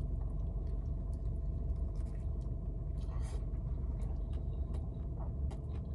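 Chewing a cheesesteak sandwich with the mouth closed: soft, scattered mouth clicks and smacks over a steady low rumble inside a car cabin.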